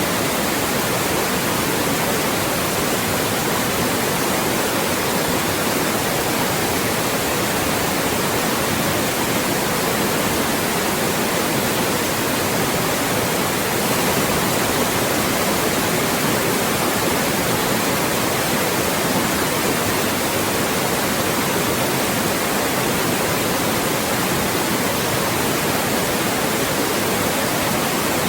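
Loud, steady white noise: an even, unbroken hiss with no change.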